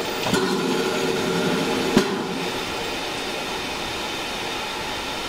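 Heritage steam railway train on the move: a steady rush of running noise, fuller in the first couple of seconds, with two sharp clacks, the second about two seconds in.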